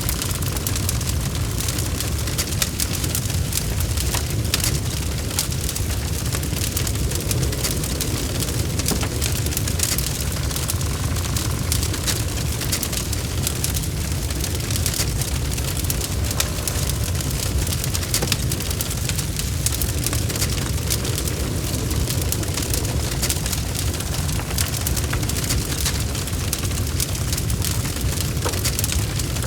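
Log fire burning steadily with a dense, continuous crackle of small pops over a low rumble of flame.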